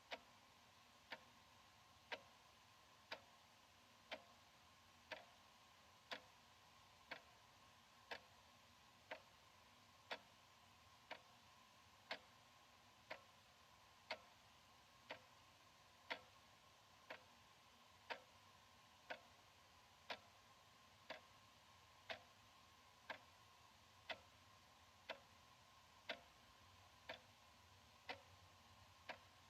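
Analog wall clock ticking steadily, about one tick a second, the ticks alternating slightly louder and softer in a tick-tock pattern.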